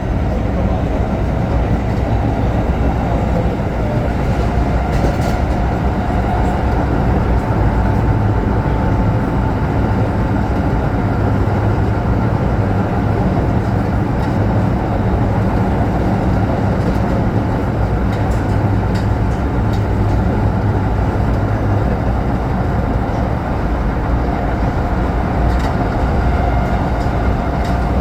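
Osaka Metro Chuo Line train running between stations: a steady rumble of wheels on rail and traction motors, heard from inside the car.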